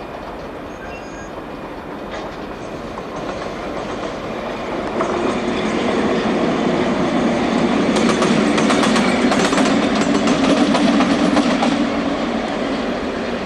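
Diesel locomotive running light (with no train behind it) passing by, a steady engine drone growing louder to a peak and easing off near the end. At the peak the wheels click over the rail joints.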